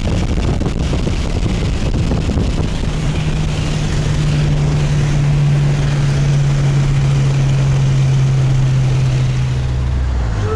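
Car engine running hard under way, heard from inside the cabin over heavy wind and road rush. Its steady note holds, then drops to a lower pitch about ten seconds in as the car eases off.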